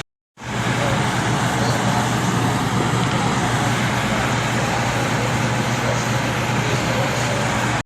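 Air conditioning condensing unit running steadily: an even rush of fan and airflow noise over a constant electrical hum.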